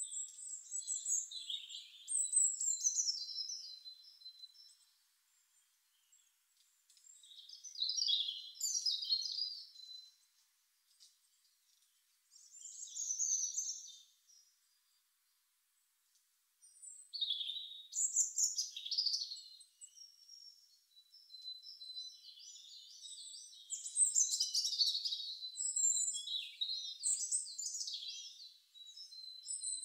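Songbird singing: high-pitched twittering and warbling phrases in bouts of a few seconds, separated by short pauses.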